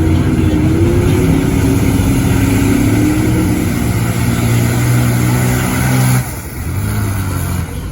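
Big truck engine revving hard at high rpm with the pitch rising and falling. About six seconds in it suddenly backs off to a lower, steadier run.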